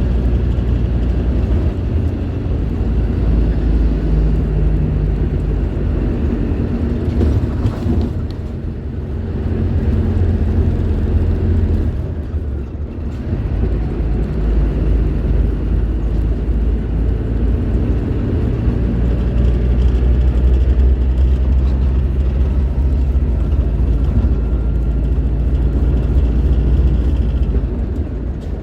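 Scania K310IB bus's rear-mounted diesel engine running under way, a steady low drone. It eases off briefly twice, about eight and about twelve seconds in, then pulls again.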